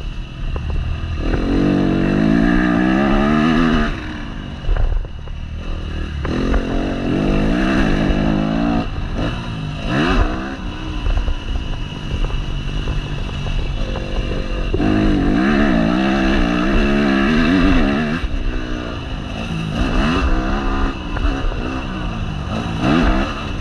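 Yamaha motocross bike engine heard from on board, revving hard in repeated pulls. The pitch climbs through each pull and drops as the throttle is shut, with shorter throttle blips in between.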